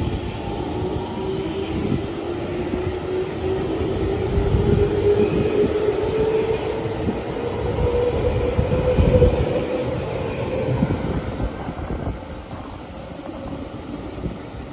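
Electric commuter train moving out along the station platform, its motors whining in a pitch that rises steadily as it picks up speed, over the rumble and clacks of its wheels on the rails. The sound grows loudest about nine seconds in, then falls away over the last few seconds as the train leaves.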